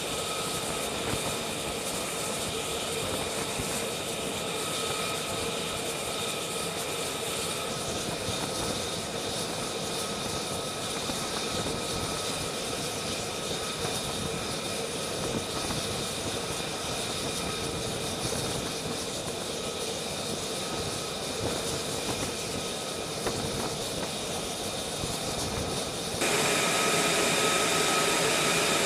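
Jet aircraft engine running steadily: a continuous roar with a high, steady turbine whine in several tones over it. Near the end it turns abruptly louder.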